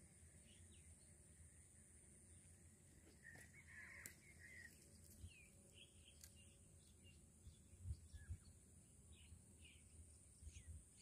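Faint birds calling: scattered short, falling chirps, with a harsher cluster of calls about three to four seconds in, over a steady high-pitched hum.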